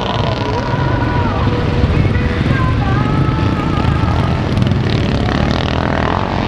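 Several classic motocross bikes racing, their engines whining and revving up and down over one another as they accelerate and shift.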